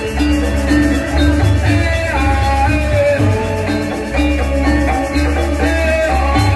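Balinese gamelan music playing, with tuned metal percussion over a low pulsing beat.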